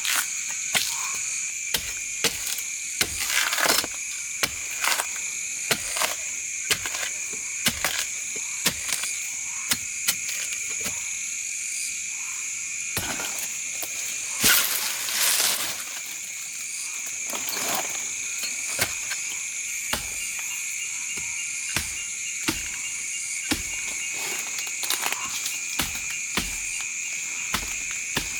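Steady high-pitched drone of insects, with frequent short sharp clicks or knocks at irregular intervals and a louder noisy burst about halfway through.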